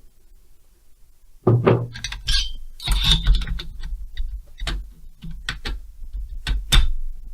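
Metal hand tools and chainsaw engine parts clinking and knocking as they are handled, a string of sharp irregular clicks and taps with a few louder metallic knocks, over a low hum.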